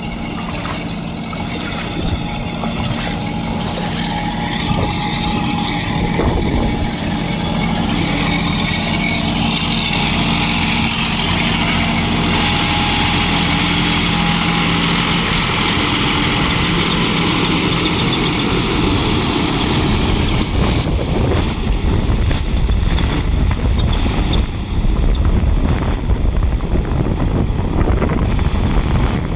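John Deere tractor engine running steadily while the tractor drives through deep water, with a loud rushing, splashing noise of water and wind on the microphone; the engine hum is clearest in the first half and sinks under the rushing noise about halfway through.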